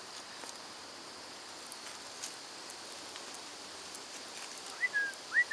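Small bird giving two short chirps near the end, each sweeping quickly upward and then holding a high note, over a faint steady high hiss.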